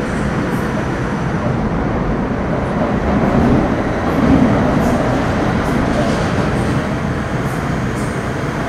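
Metro Cammell M-Train (CM-Stock) electric multiple unit with GEC GTO chopper traction, running between stations and heard from inside the car. A steady rumble and hiss of wheels on rail, with faint high steady tones above it, swelling slightly in the middle.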